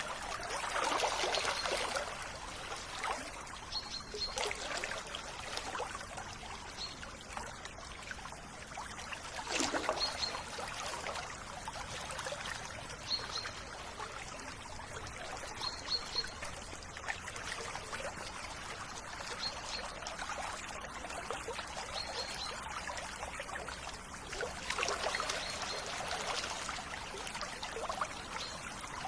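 River water trickling and splashing, swelling louder now and then, with a short high bird chirp repeated every few seconds.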